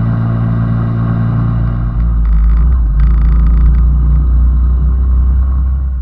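Small motorcycle engine running steadily; about two seconds in its note drops lower and grows a little louder.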